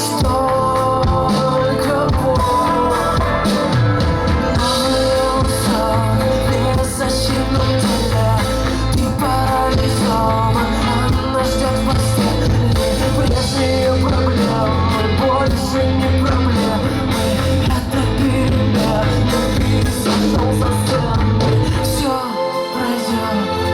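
Live rock band playing on stage with singing, loud and steady; the bass drops out briefly near the end.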